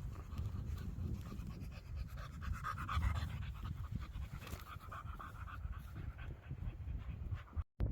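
A dog panting in quick breaths, over wind rumbling on the microphone.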